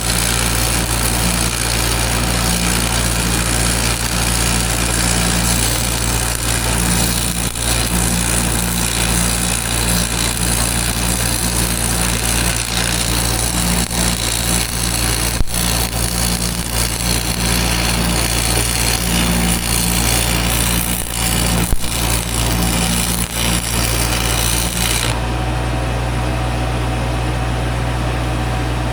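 Welding arc crackling and hissing over an engine running steadily. The arc cuts off suddenly near the end while the engine keeps running.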